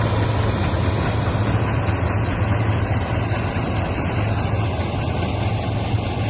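Old Massey Ferguson 630S combine harvester running steadily, its engine a constant low hum under a dense machine clatter with no change in speed.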